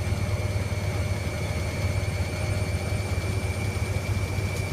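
Hoover Logic A3790 washing machine spinning at a steady speed: a low drum rumble with a constant high motor whine over it.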